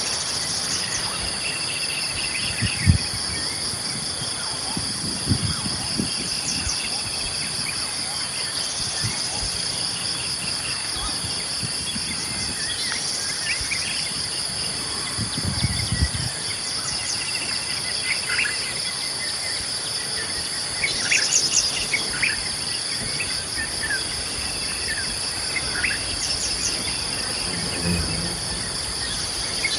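Steady high-pitched drone of insects, likely crickets, with scattered short bird chirps throughout. A few low dull thumps come about three seconds in, around five to six seconds, and around sixteen seconds.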